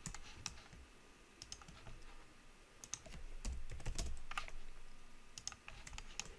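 Computer keyboard keys and mouse buttons clicking in an irregular scatter, with a low rumble a little over three seconds in, the loudest moment.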